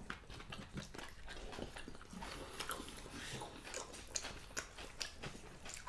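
Faint chewing and mouth sounds of people eating food by hand, a string of small irregular clicks.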